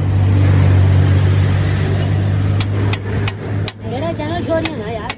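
A steady low engine hum, with a few sharp knocks like hammer blows on metal from about two and a half seconds in. The hum drops away near the end and a voice is heard.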